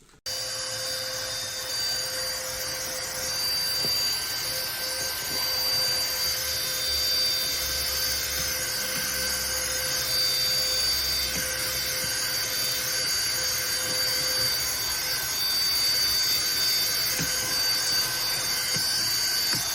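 Cordless stick vacuum cleaner switched on just after the start, then its motor running steadily with a high whine over a rush of air.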